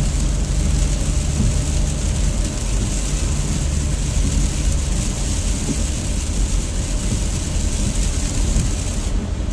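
Car driving in rain, heard from inside the cabin: steady low road rumble with the hiss of tyres on wet pavement and rain on the car. The hiss briefly cuts out near the end.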